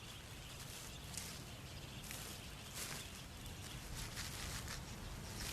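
Faint outdoor ambience with a few brief soft sounds scattered through it.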